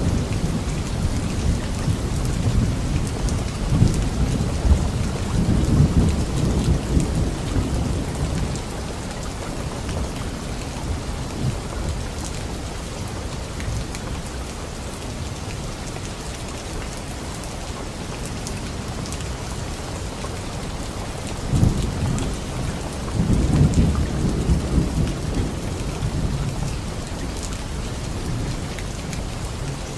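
Steady heavy rain falling, with rolling thunder: low rumbles swell and fade through the first third, then return for a second roll about two-thirds of the way in.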